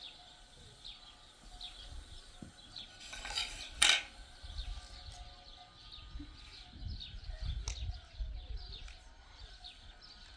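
Small birds chirping repeatedly in the background, with a short clatter of dishes about four seconds in.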